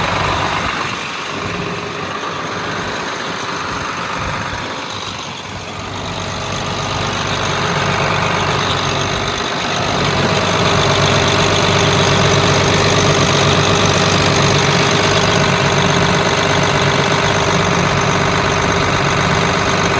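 John Deere 8450 tractor's turbocharged six-cylinder diesel idling steadily, growing louder about ten seconds in.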